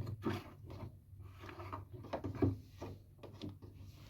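Plastic parts of a Siemens washing machine being handled and fitted back: a few irregular light knocks and rubbing.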